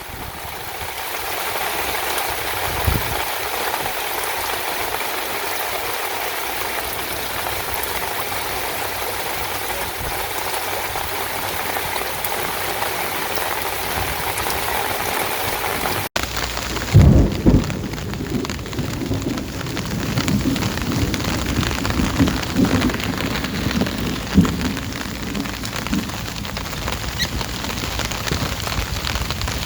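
Heavy rain falling steadily. About 16 s in the sound cuts abruptly to a rougher patter of drops, with several short, low, heavy thuds.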